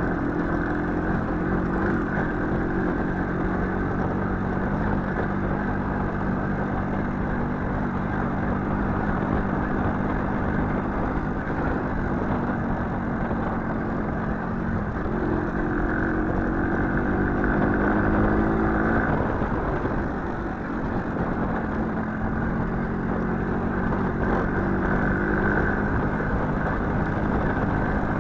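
Small motorcycle engine running under way, its note climbing and falling with the throttle, with a brief drop in revs about twenty seconds in.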